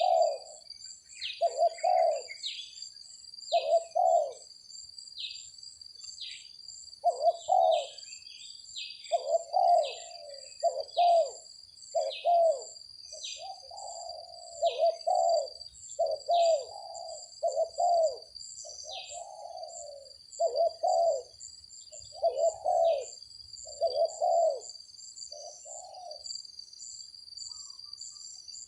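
Spotted doves cooing over and over, phrase after phrase in short clusters, with short high chirps between them and a steady high-pitched hum behind.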